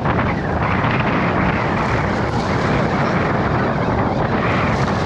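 Strong wind buffeting the microphone in a steady, rumbling rush on an open boat.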